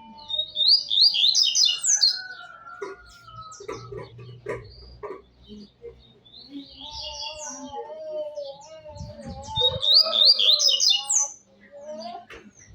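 Double-collared seedeater (coleiro) singing: two bursts of rapid, high notes, each about a second and a half long, near the start and about ten seconds in. Between them runs a lower, drawn-out wavering tone with scattered clicks.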